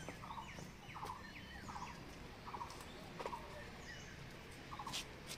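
Birds calling: a short rattling call repeated about once a second, with thinner high chirps sliding downward between them. A sharp click near the end.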